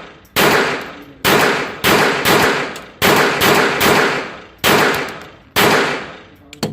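Pistol fired about nine times in an uneven string, each shot followed by a long fading echo.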